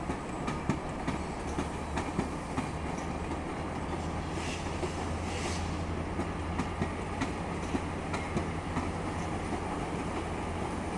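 GO Transit commuter train rolling through the station, its wheels clicking over rail joints and switches above a steady low locomotive drone. Two short hissing sounds come about halfway through.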